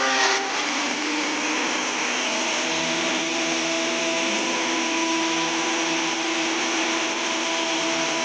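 Woodshop machine running steadily: a motor's whine over an even rush of noise.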